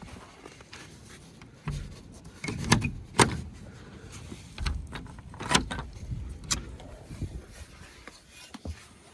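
A string of irregular knocks and clatters with some dull thumps. The sharpest knocks come about three seconds in and again past the middle.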